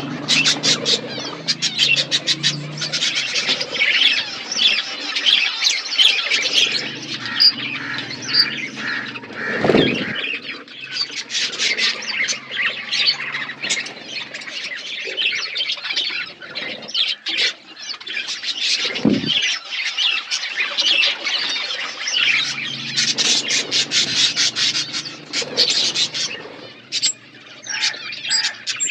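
A colony of budgerigars (budgies) calling all at once: a dense, continuous mix of chirps, chatter and short sharp calls from many birds. Two low thumps come about ten and nineteen seconds in.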